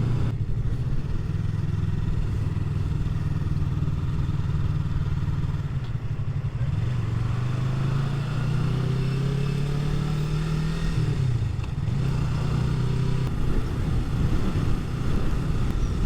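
Motorcycle engine running on the move. Its pitch climbs steadily for several seconds from about six seconds in, drops suddenly, then holds steady.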